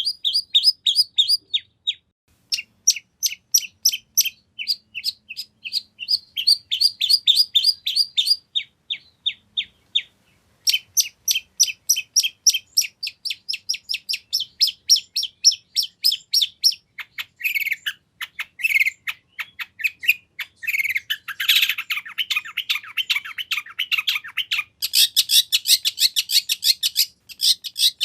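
Long-tailed shrike singing a full, mimicry-rich song: long runs of short, sharp, high notes repeated about six a second, broken by short pauses, with a harsher chattering passage in the middle before the quick runs return.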